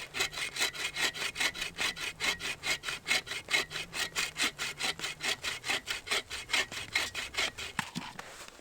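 Hand saw cutting through wood in quick, even strokes, about five a second, stopping near the end.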